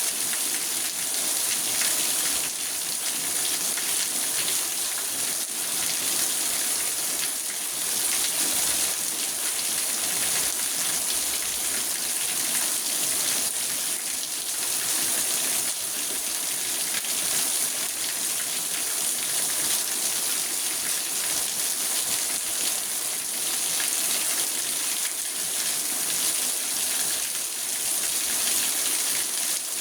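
Steady rain drumming on a car's roof and windows, heard from inside the cabin: an even hiss with a fine patter of drops.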